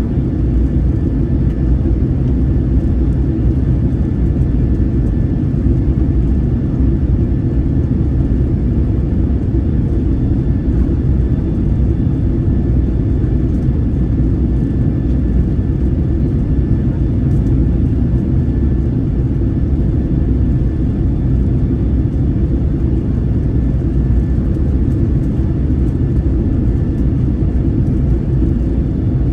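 Airliner cabin noise in flight: a steady low rumble of the engines and airflow, with a faint steady high tone above it.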